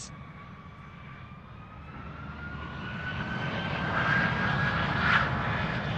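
Airplane engine drone growing steadily louder, with a whine that slowly rises in pitch.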